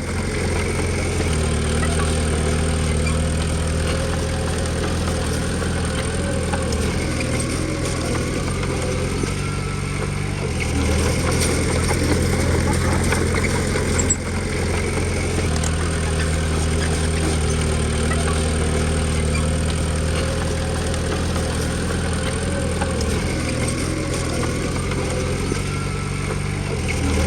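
Komatsu D20P bulldozer's diesel engine running steadily, its note shifting up and down several times as the load changes.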